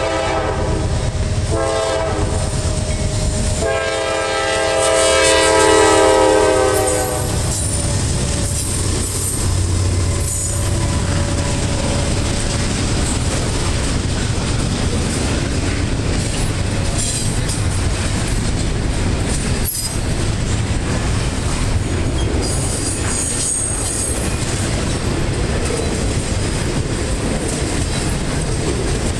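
Horn of a Norfolk Southern GE C44-9W (Dash 9) locomotive blowing as the train approaches: two shorter blasts, then a long, loud blast that ends about seven seconds in. The three Dash 9 locomotives and the double-stack intermodal cars then roll past with a steady clickety-clack of wheels over rail joints and several bursts of high-pitched wheel squeal.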